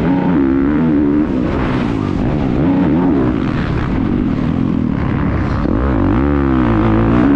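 Motocross bike engine heard on board, its pitch rising and falling several times as the rider opens and closes the throttle and shifts around the track.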